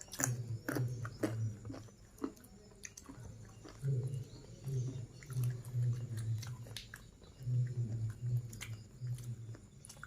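A person chewing food close to the microphone, about two chews a second, with sharp crunchy clicks in the first couple of seconds.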